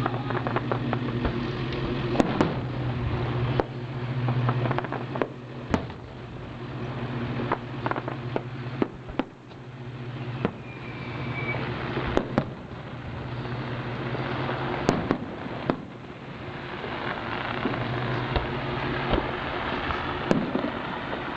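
Fireworks going off: sharp bangs at irregular intervals with crackling, over a steady low hum.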